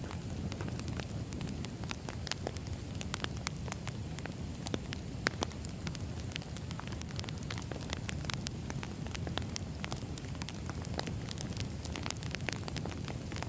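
Burning firewood crackling: a steady low rumble of flames with many small pops and snaps scattered throughout, and a couple of louder snaps about five seconds in.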